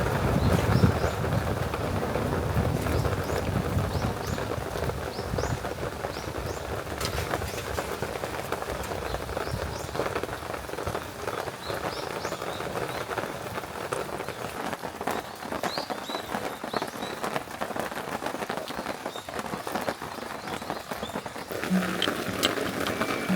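Heavy rain falling steadily, with many sharp drop impacts.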